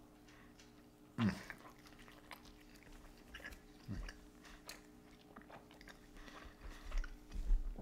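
A person biting into and chewing a soft flour-tortilla chorizo and egg breakfast taco: quiet mouth sounds with faint wet clicks, and two short low sounds about one second and four seconds in.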